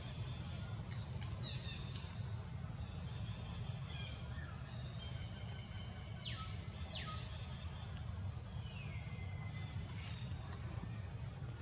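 High-pitched animal calls: two short calls about six and seven seconds in that drop sharply in pitch, and one longer call near the end that slides down and then holds level for about a second, over a steady low rumble.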